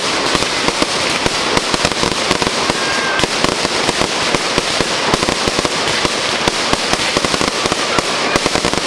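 Fireworks going off in a dense, continuous run of rapid cracks and pops, many every second without a break.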